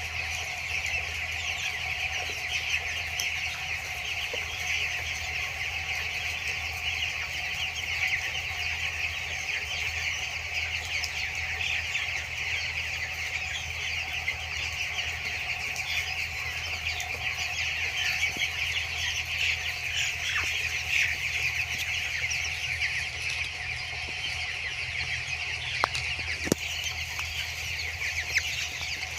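A large flock of two-week-old broiler chicks peeping and chirping, many at once and without a break, over a steady low hum.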